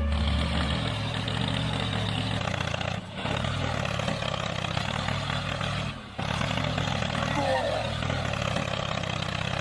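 Small motor of a DIY mini tractor running steadily, breaking off briefly twice.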